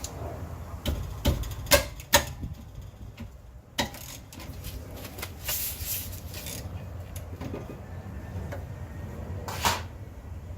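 A few sharp knocks and some clatter from tools and brake parts being handled during a rear brake rotor job, three of them close together in the first couple of seconds and one more near the end, over a low rumble.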